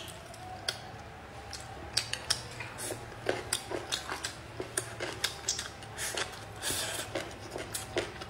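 Close-miked chewing of a mouthful of spicy fermented tofu: a run of irregular wet clicks and smacks from the mouth, a few a second.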